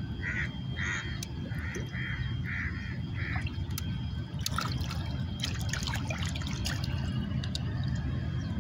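A bird gives a quick series of harsh calls, about two a second, stopping about three and a half seconds in, over a steady low rumble. After that come small splashes and trickling of shallow water at the shoreline, with scattered clicks.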